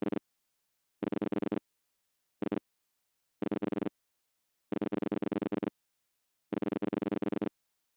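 Rotary telephone dial pulsing out a number, digit by digit. Each digit is a quick train of clicks at about ten a second, with short silent gaps between digits. The trains run through the end of one digit, then 6, 2 and 5, then two long runs of ten for the zeros.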